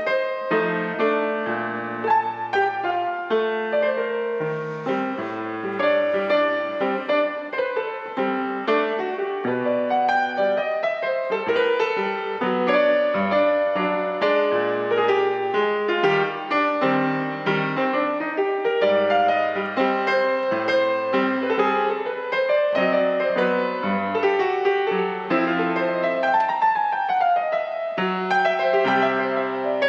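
Solo piano playing a jazz ballad: chords and a moving melody.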